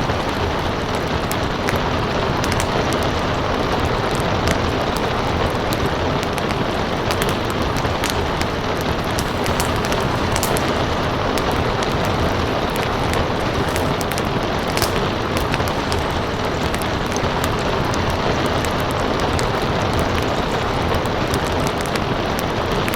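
Steady rain falling, mixed with a wood fire crackling, its many small sharp pops scattered irregularly over the constant hiss of the rain.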